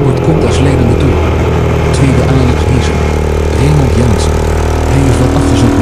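Ducati 450 bevel-drive single-cylinder engine running at race speed, recorded on board the bike. Its pitch holds mostly steady, with wind noise on the microphone.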